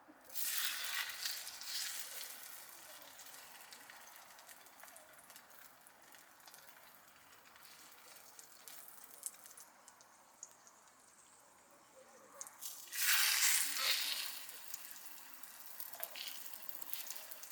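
Food sizzling in a hot pan. The hiss surges loudly twice, just after the start and about 13 seconds in, as food goes onto the hot surface, and settles to a steady lower sizzle in between.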